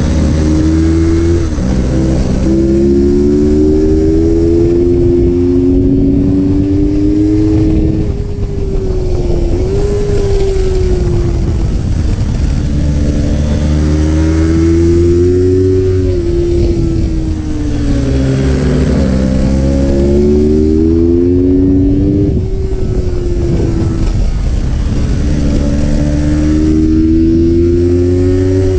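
Yamaha R3's parallel-twin engine revving hard through the gears: its pitch climbs in repeated rises with quick drops between them as it upshifts, then sags and picks up again several times. A steady low wind rumble runs under it.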